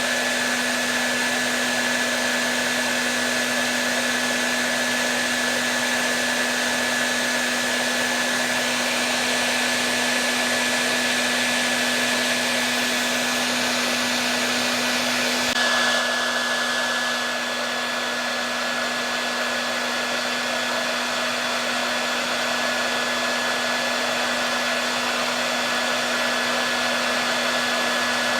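Hair dryer running steadily: an even whooshing airflow over a steady motor hum and a faint high whine. About halfway through, the tone shifts slightly and the hiss loses a little of its top.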